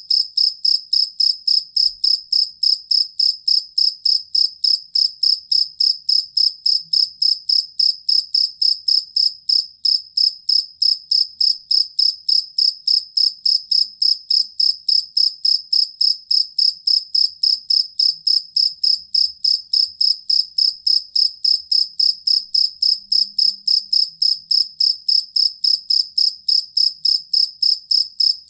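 Jangkrik kalung (collar field cricket) chirping steadily in an even, unbroken train of about three short, high, clear chirps a second.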